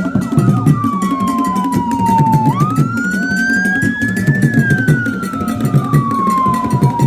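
A siren wailing in slow sweeps: its pitch falls for about two and a half seconds, climbs back up, then falls slowly again. Underneath runs music with a steady drum beat.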